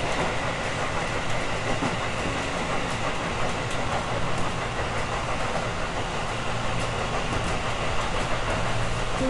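Electric commuter train running at speed, heard from inside the leading car: a steady rumble of wheels on rail with a low motor hum and occasional light clicks of the wheels over rail joints.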